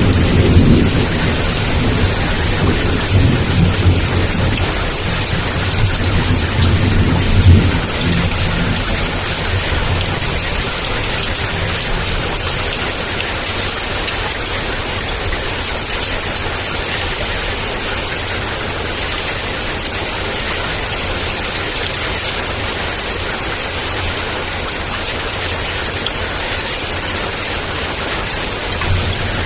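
Heavy rain pouring steadily in a downpour, with a low rumble of thunder that dies away about eight seconds in.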